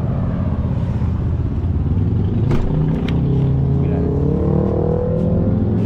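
Truck engine running steadily with a low hum whose pitch drifts up slightly in the middle, and a couple of sharp clicks about two and a half and three seconds in.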